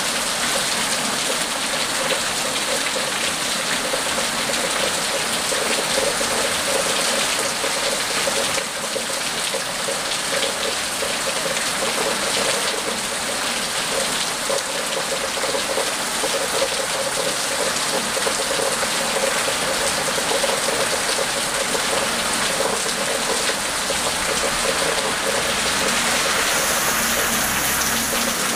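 Steady rain falling on wet concrete pavement: a continuous hiss of rain with the patter of drops on the ground.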